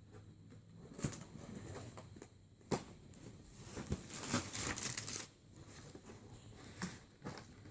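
Toy packaging being handled: plastic and cardboard rustling and crinkling, with irregular sharp clicks and knocks, the loudest about a second in and near three seconds in, and a longer crinkly stretch around the middle.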